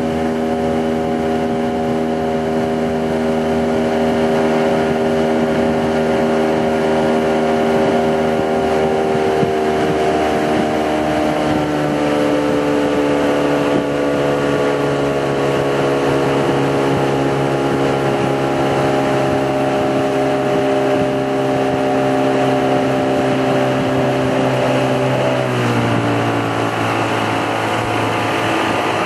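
Boat engine running steadily, its pitch sinking slowly and then dropping to a lower note near the end as the engine slows.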